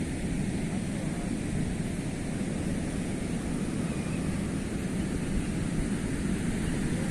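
Sea waves washing on the shore: a steady, low rushing noise without distinct breaks.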